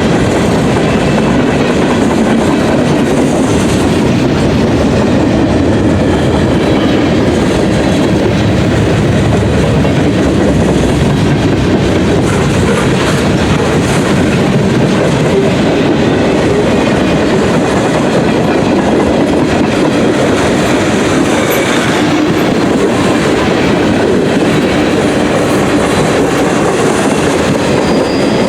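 Freight cars of a long CSX manifest train rolling past steadily, a continuous loud noise of steel wheels running on the rails.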